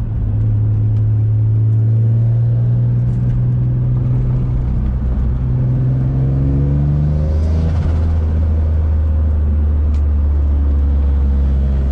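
Single-turbo Infiniti G35's VQ35 V6 engine pulling steadily, its pitch slowly rising, then dropping sharply at an upshift about seven and a half seconds in and running on at lower revs.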